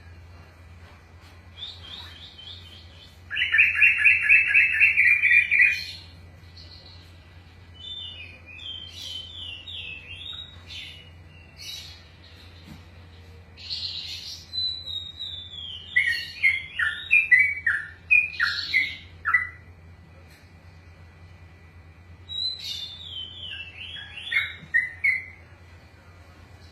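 Yellow-vented bulbul (trucukan) singing: a loud, fast run of repeated notes a few seconds in, then several phrases of quick, falling, bubbling notes. A steady low hum runs underneath.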